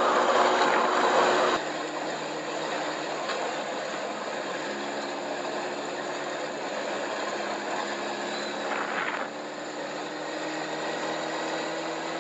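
Motorcycle engine running at a steady speed under a rush of wind and road noise, as picked up by the dash cam's own microphone on the move. The rush is louder for the first second and a half, then drops and holds steady.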